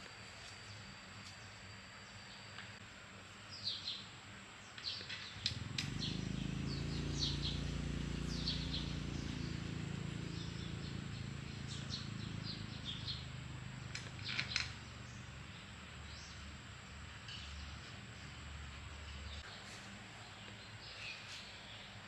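Small birds chirping, with a low engine hum that comes in about five seconds in and slowly fades away. A few sharp taps or clicks sound along the way.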